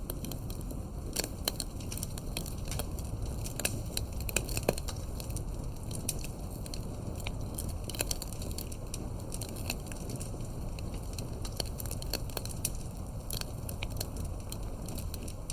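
Campfire of burning firewood crackling and popping, with irregular sharp snaps over a steady low rumble of the flames.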